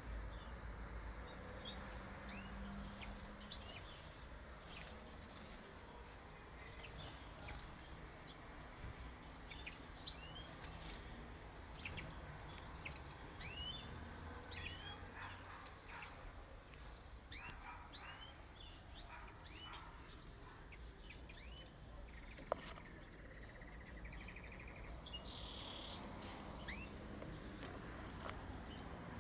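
Canaries and small wild birds in an aviary giving many short, scattered chirps, faint against a background hiss. A single sharp click sounds about three-quarters of the way through.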